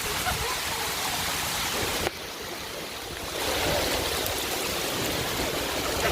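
Hail pelting down in squall wind, a dense, even noise. It drops suddenly about two seconds in and comes back a second and a half later.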